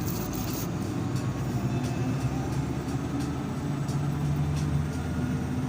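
Steady low drone of a vehicle being driven: engine and road noise, with the engine tone strengthening a little about three and a half seconds in.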